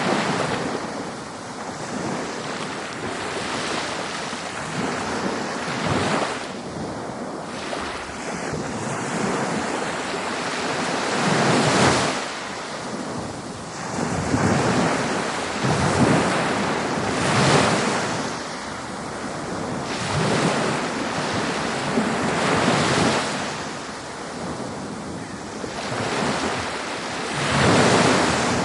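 Ocean waves breaking and washing onto a beach, a fresh surge of surf every two to three seconds over a constant rush of water, with wind noise on the microphone.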